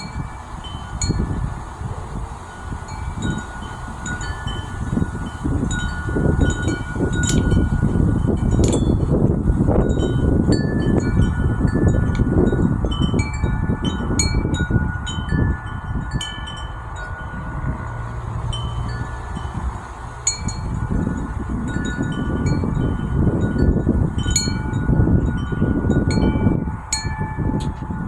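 Wind chime ringing irregularly in a gusty breeze, many overlapping struck tones that ring on. Wind buffets the microphone with a low rumble that swells and eases.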